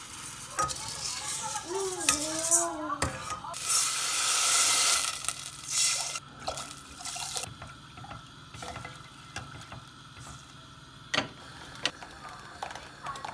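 Kitchen work sounds: a water tap runs briefly about four seconds in, among scattered clinks and knocks of dishes and utensils.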